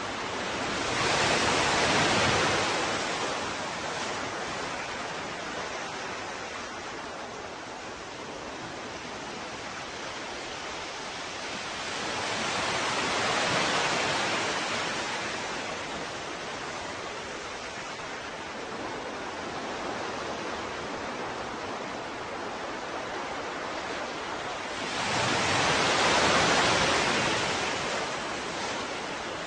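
Ocean waves washing ashore: a steady hiss of surf with three slow swells, about two seconds, thirteen seconds and twenty-six seconds in, each building and fading away over several seconds.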